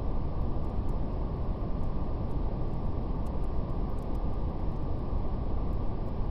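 Steady brown noise, a deep even hiss weighted toward the low end, with faint scattered crackles of a fire ticking through it.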